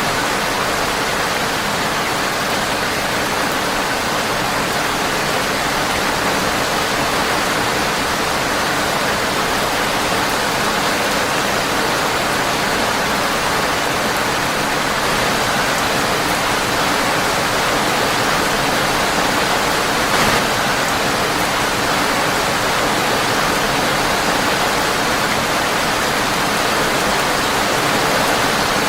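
Steady rain falling on a windowpane, an even hiss with no letup. One brief click sounds about twenty seconds in.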